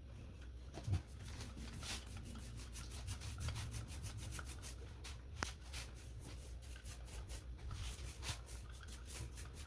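Paintbrush scrubbing liquid rust remover onto a rusty steel fire pit, a faint run of quick, irregular scratchy strokes.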